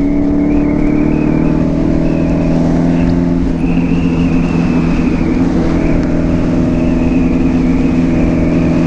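Suzuki B-King motorcycle's inline-four engine running at a steady cruising speed, its exhaust note holding an even pitch, with wind rumble on the microphone underneath.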